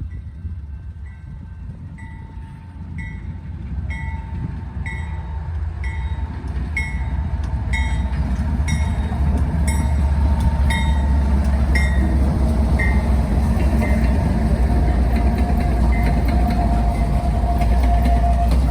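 Norfolk Southern diesel locomotives drawing near, their engine rumble building over the first ten seconds or so and then holding loud. Over it a bell rings about once a second, fading out after about twelve seconds.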